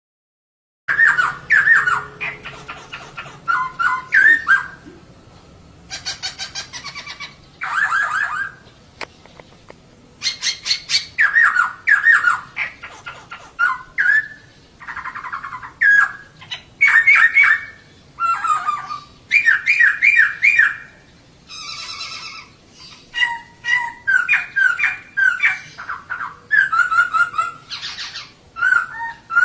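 Female poksay (laughingthrush) calling: rapid chattering series of short, sharp notes in repeated bursts with brief pauses between them, starting about a second in.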